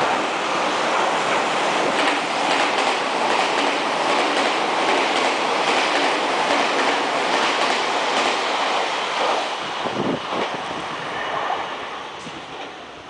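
Meitetsu electric train passing through a station at speed, its wheels clattering over the rail joints. The noise starts abruptly, holds steady for about ten seconds, then dies away near the end.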